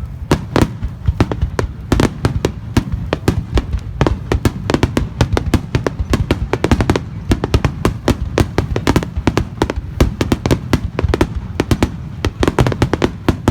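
Fireworks starmine barrage: rapid sharp bangs and crackling, several a second, over a continuous low rumble.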